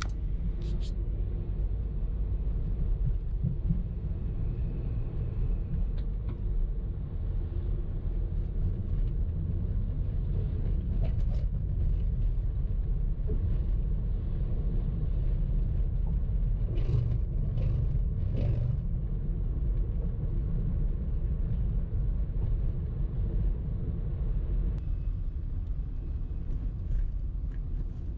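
Car driving in traffic: a steady low rumble of engine and road noise, with a few faint short clicks partway through.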